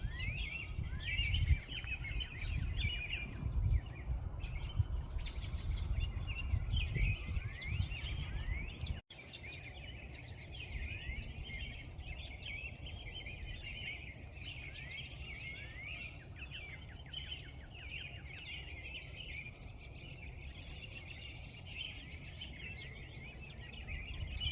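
Dense morning chorus of many songbirds, overlapping chirps, trills and quick rising and falling whistles. A low rumble lies under it for about the first nine seconds and drops away abruptly.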